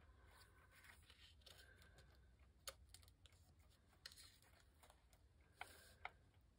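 Near silence: quiet room tone with about four faint, light clicks as small paper craft pieces are handled.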